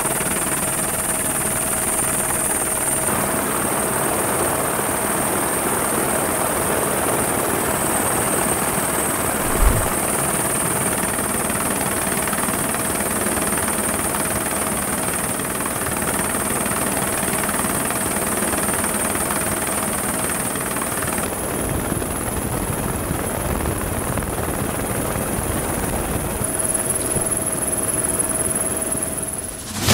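Helicopter running steadily, its engine and rotor noise continuous throughout, with one brief low thump about ten seconds in.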